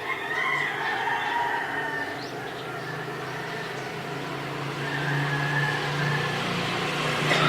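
A rooster crows in the first two seconds. Then a motor vehicle's engine approaches, getting louder toward the end.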